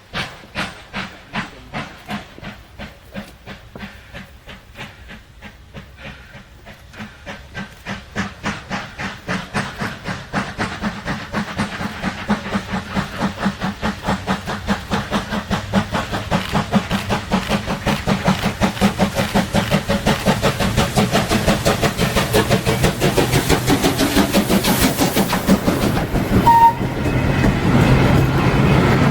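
FS class 940 steam locomotive working a train, its exhaust beats in an even rhythm that grow louder and quicker as it draws nearer.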